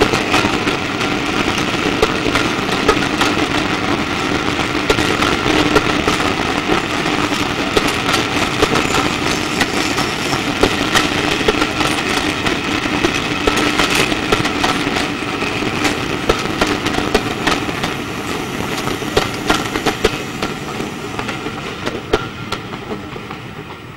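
Passenger coaches of a steam-hauled train rolling past, their wheels clicking over the rail joints over a steady running noise. The sound fades as the last coach goes by near the end.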